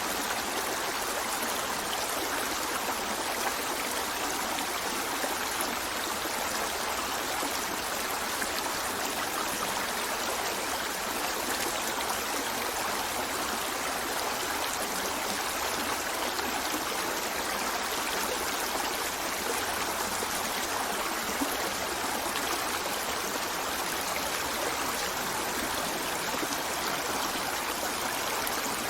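Shallow river flowing steadily over stones: an even, unbroken rush of water with fine trickling.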